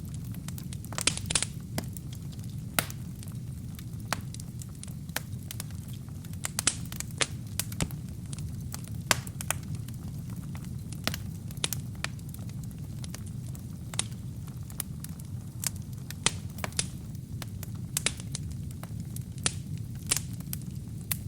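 Wood fire burning in a fireplace: a steady low rumble of flames with sharp, irregular crackles and pops from the burning wood and kindling.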